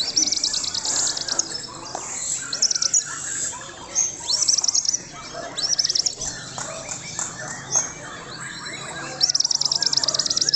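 White-rumped shama (murai batu) singing continuously: a varied song of high whistled phrases and sweeping notes, with fast trills of rapidly repeated notes at the start and again near the end.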